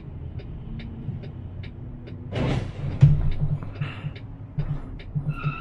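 Vehicle footage audio: a low rumble with steady ticking about twice a second. A rush of noise comes about two and a half seconds in, then a heavy thump just after.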